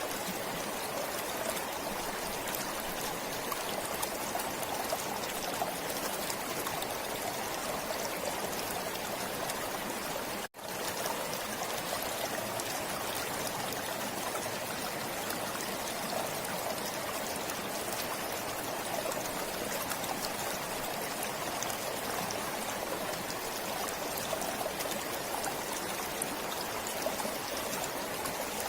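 Forest stream flowing steadily. The sound drops out for a split second about ten seconds in, then resumes unchanged.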